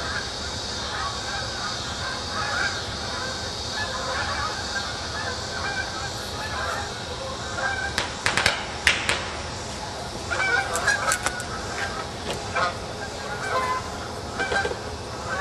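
A flock of geese honking overhead, calling repeatedly. Around the middle come a few short, sharp pops, the loudest sounds here, from fireworks going off down the street.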